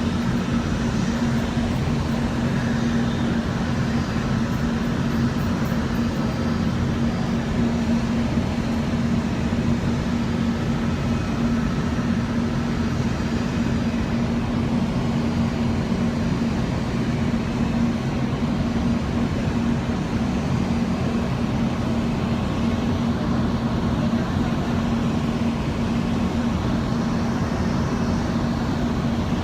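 Steady hum inside the cabin of an Airbus A320 on the ground before departure: a constant low drone with an even rush of air, unchanging throughout.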